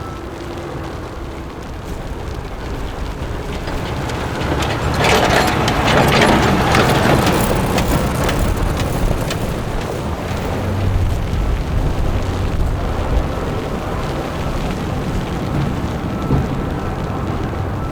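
City street traffic noise, with a vehicle passing close by that swells to its loudest about five to nine seconds in, then settles back to a steady rumble.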